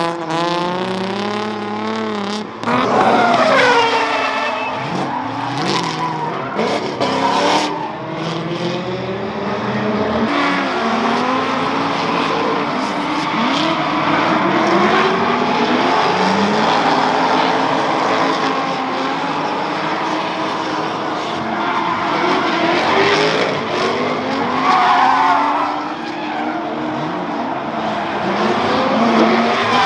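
Several drift cars sliding around the track together, their engines revving up and down hard while the tires squeal and skid.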